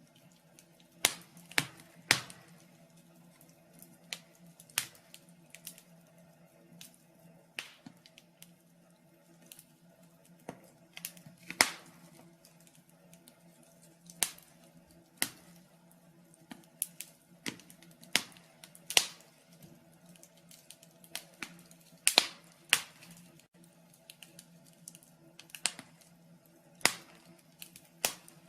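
Wood fire in a fireplace crackling: irregular sharp pops and snaps, some loud, over a faint steady hum.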